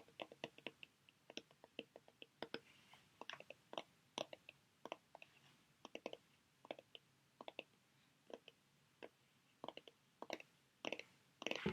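Close-miked fingernail taps and clicks on sheet-mask packets, irregular, a few a second, with faint crinkling of the packaging now and then and a louder crinkle near the end.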